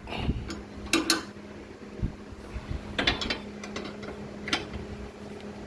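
A few sharp metallic clicks and clinks, spaced a second or more apart, from parts or tools being handled, over a steady low hum.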